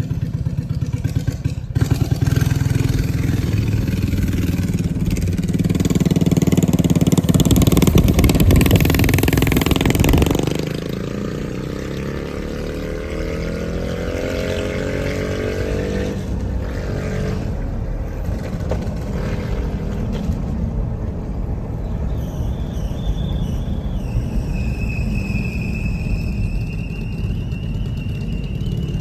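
Mini bike's small single-cylinder engine running under throttle, getting louder until it eases off suddenly about ten seconds in. Its pitch then falls away as it slows, and it runs on steadily, with a thin high whine near the end.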